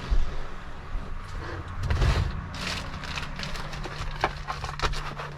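Kitchen handling noises: a few dull thumps and sharp clicks over a steady low hum.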